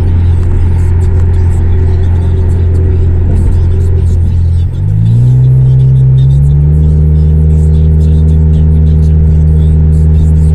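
Honda CR-V four-cylinder engine running loud through an exhaust with the resonator and muffler deleted: idling steadily, then revved a little under halfway through and held at a steady higher rpm.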